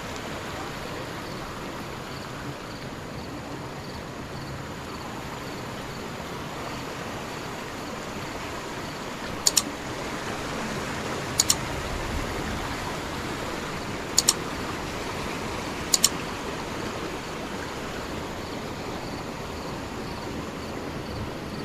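Rainforest stream flowing steadily. Four sharp double clicks break through it in the middle, about two seconds apart, louder than the water.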